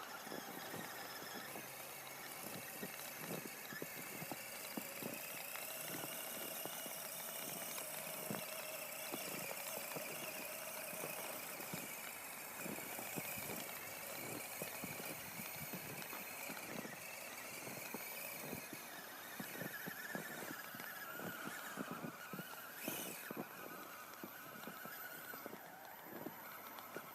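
Brushless electric motor of an Axial Dingo RC truck on RC4WD Deep Lug tracks, whining as it drives through deep snow, the pitch rising and falling with the throttle. Rapid irregular crunching and clatter from the tracks runs under the whine.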